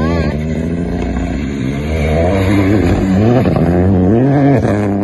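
Rally car engine revving hard on a gravel stage, loud, its pitch rising and falling with the throttle, with a dip a little after four seconds before it climbs again.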